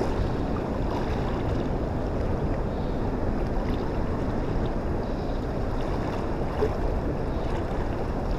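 Wind buffeting the microphone: a steady, low, rumbling rush of noise.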